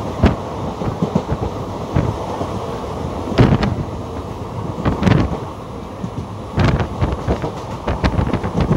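Indian Railways passenger train heard from on board, running along the track with a steady rumble. Wheels clatter over the rail joints in quick pairs of knocks about every second and a half.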